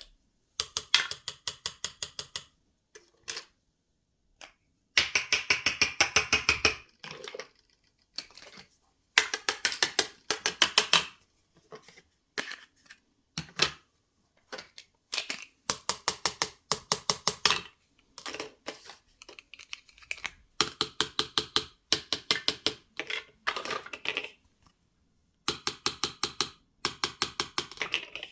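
Runs of rapid, evenly spaced clicking from small plastic toy kitchen toys being worked by hand, about seven clicks a second, each run lasting a second or two with short pauses between.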